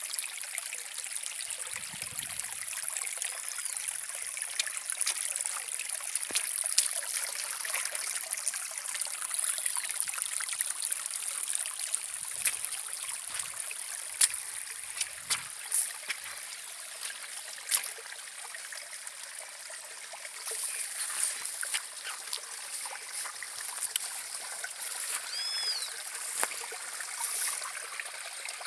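Small stream of water trickling and splashing steadily, with a few sharper splashes now and then.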